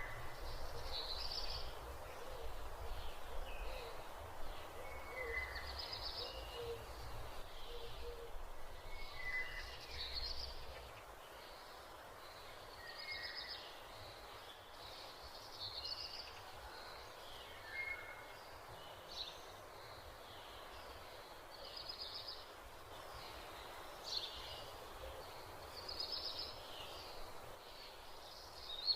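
Birds calling: short, high chirps and whistled notes, some dropping in pitch, repeating every second or two over a steady background hiss, with a low rumble during roughly the first ten seconds.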